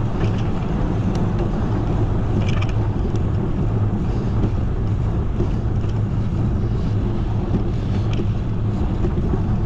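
Steady wind rumble buffeting the microphone of a camera riding along on a moving bicycle, with a few faint short high chirps over it.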